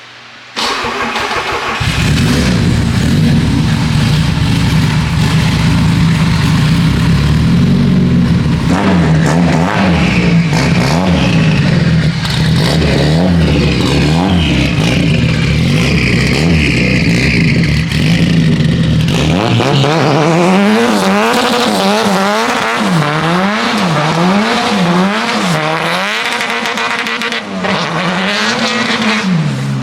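Turbocharged KA24DET 2.4-litre four-cylinder in a Nissan 240SX, cutting in abruptly and running loudly, then revved up and down over and over. The engine is being blipped after its throttle position sensor has been recalibrated.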